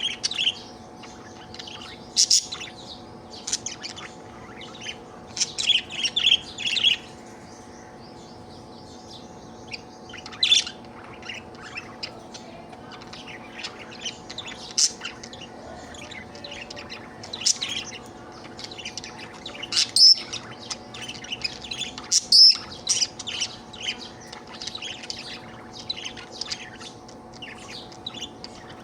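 Budgerigar chirping and chattering in quick, irregular bursts, with several louder, sharper calls scattered through. A faint steady hum runs underneath.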